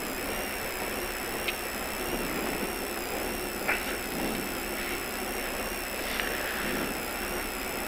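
Mitsubishi Lancer Evolution IV Group N rally car's turbocharged four-cylinder engine idling steadily, heard from inside the cabin, with a couple of faint clicks.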